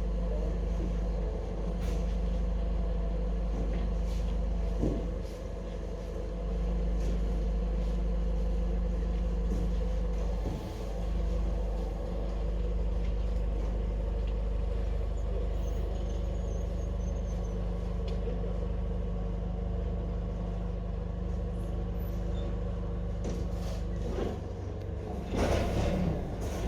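An engine running steadily, with a few short knocks and a louder clatter near the end.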